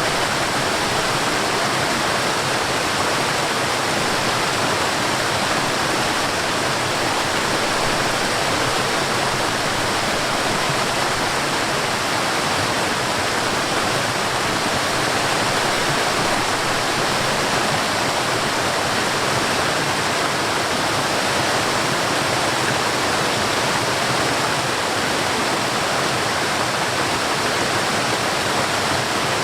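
Water rushing steadily down a mountain stream and small waterfall, an even, unbroken rush with no change in level.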